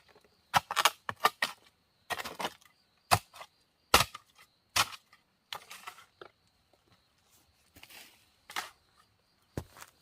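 Sharp, irregular cracks and knocks of wood being cut with a blade, roughly one a second with a few quick clusters. A faint steady high insect hum runs underneath.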